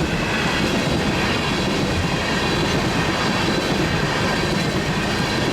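CN freight train's cars rolling past at speed: a steady rumble of steel wheels on rail, with a faint high ringing from the wheels.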